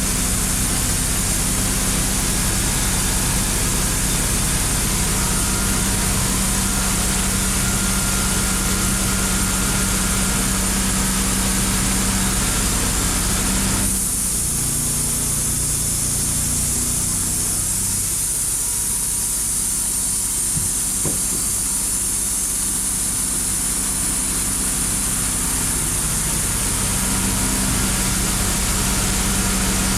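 An engine running steadily for the whole stretch. About halfway through its tone changes: the higher hiss falls away and the low hum shifts in pitch.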